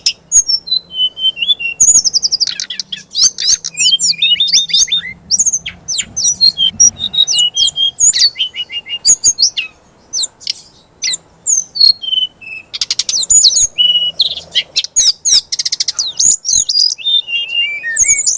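A songbird sold in Indonesia as a 'fikter' sings a fast, varied song of sharp chirps, whistled sweeps and trills, with a couple of buzzy rattles. It is the kind of song used to provoke a magpie-robin into singing.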